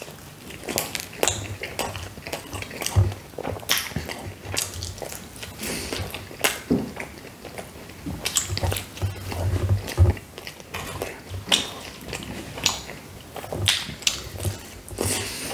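A person biting into and chewing a slice of pizza, close to the microphone. There are irregular wet mouth clicks and smacks, with soft low thumps of chewing throughout.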